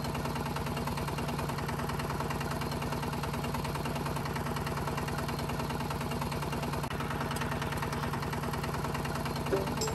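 Motor of a DIY mini tractor running steadily with a fast, even pulse. It cuts off suddenly just before the end.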